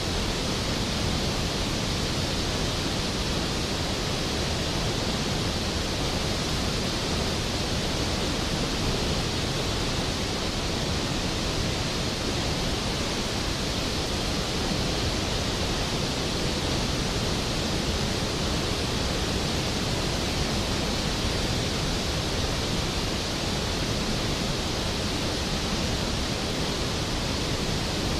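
Large waterfall, a tall glacial-river plunge, crashing steadily into its pool: a constant, even rushing noise with no breaks.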